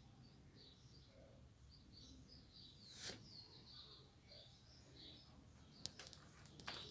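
Faint bird chirps repeating over quiet outdoor ambience, with a sharp click about three seconds in and two more near the end.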